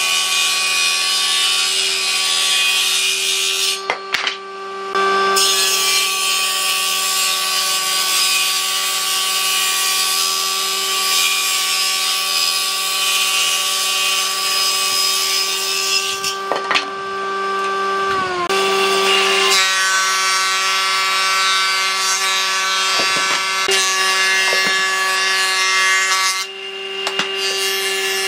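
Electric power tool working wood: a steady motor hum at one pitch under the hiss of cutting or abrading. The pitch sags briefly about two-thirds of the way through as the tool is loaded, and the sound eases off for a moment twice.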